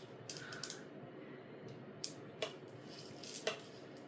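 A few light, sharp clicks and taps spaced out over a quiet room, a small cluster near the start and single ones about two, two and a half, and three and a half seconds in.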